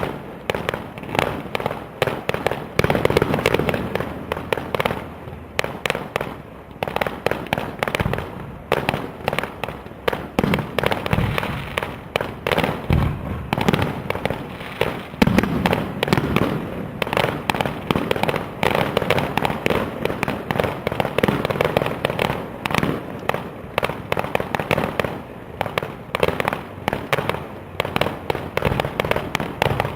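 Fireworks display: a dense, unbroken run of sharp bangs, several a second.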